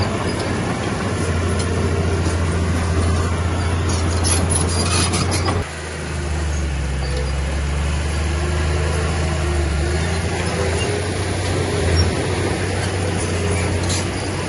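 Heavy diesel earthmoving machinery running steadily, with a low engine drone and a little clatter about four to five seconds in. The engine note dips and shifts lower about five and a half seconds in, then carries on.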